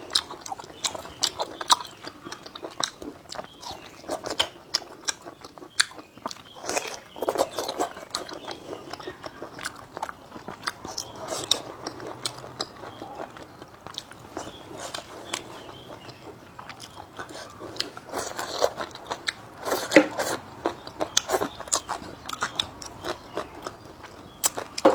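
A person eating close to the microphone: crunchy bites and chewing, with many irregular sharp clicks and smacks.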